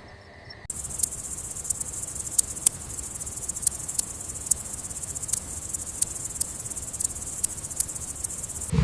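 High-pitched insect trilling, a steady dense buzz with sharp clicks scattered through it. It starts abruptly about a second in and cuts off just before the end.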